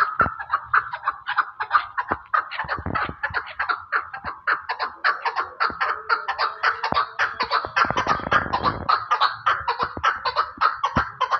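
Chukar partridges calling: a dense, unbroken chatter of short repeated notes, several a second.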